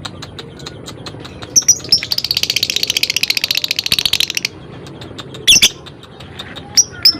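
Lovebird calling: a couple of sharp chirps, then a long rapid chattering trill (ngekek) lasting about two and a half seconds, a single loud chirp, and a quick run of chirps near the end, over a steady patter of fine ticks.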